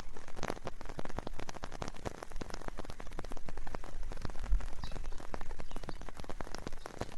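Steady rain, with many separate drops striking close by in a dense, irregular stream.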